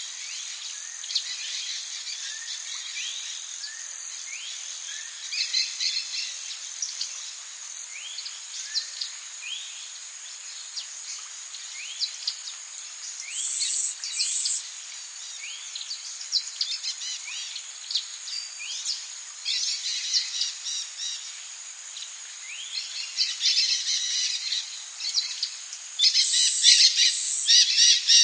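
Rainforest ambience: birds calling with many short rising chirps over a steady high hiss. Louder, shrill bursts of calling come about halfway through and again near the end.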